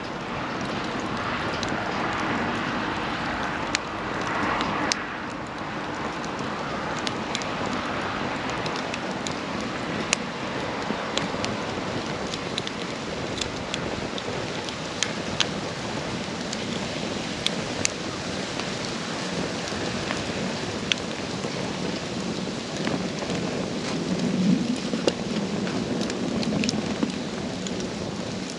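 Wood campfire burning: a steady rush of flames with frequent sharp crackles and pops of burning wood.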